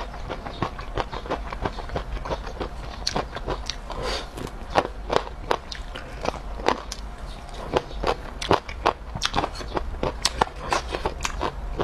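Close-miked mouth sounds of chewing and biting fried skewered food: a continuous run of wet clicking chews, several a second.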